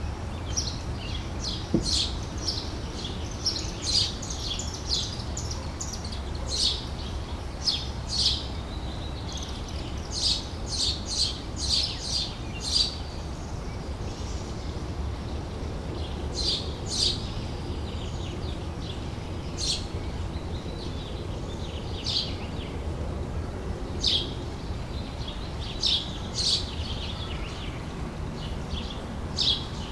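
Small birds chirping: many short, high chirps in quick clusters with brief pauses between, over a steady low rumble.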